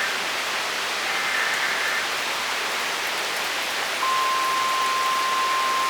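Heavy rain falling in a steady, dense hiss. About four seconds in, a steady high electronic-sounding tone starts and holds.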